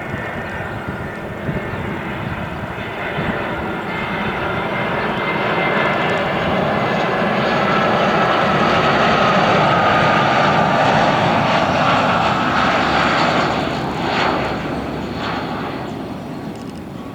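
Jet airliner's engines passing by, a roar with a high whine that builds to its loudest about halfway through and then fades away.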